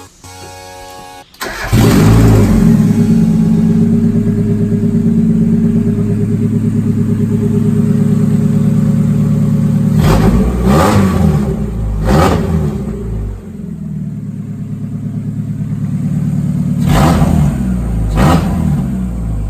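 Mazda Miata's freshly swapped-in 1.8-litre four-cylinder engine starting and running loudly at a fast idle. It is blipped twice about ten seconds in and twice again near the end, settling back to idle in between.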